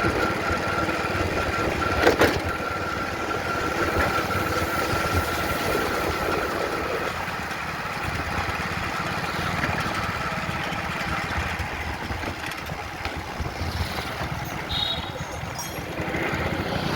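Engine running steadily at idle, with one sharp knock about two seconds in.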